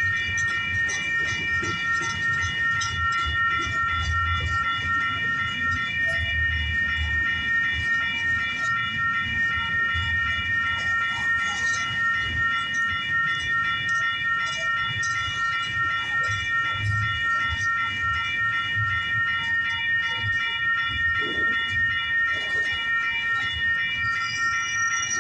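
Railroad grade-crossing warning bell ringing steadily over the low, uneven rumble of a long Union Pacific intermodal train's cars rolling past.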